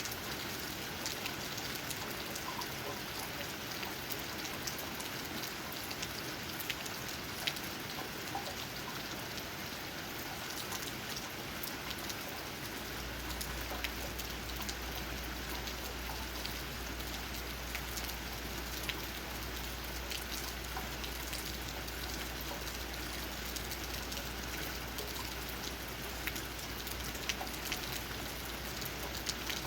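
Steady rain falling on tree leaves, with many separate drops tapping close by among the even patter. About halfway through, a low steady hum joins in under the rain.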